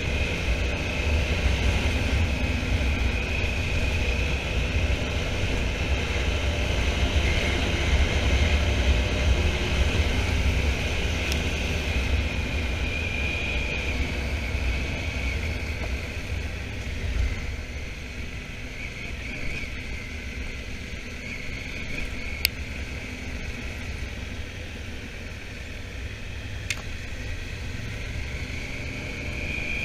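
Riding noise on a Honda Africa Twin motorcycle: wind rush and the engine running steadily, louder in the first half and easing off after about 17 seconds. A few sharp ticks come through in the second half.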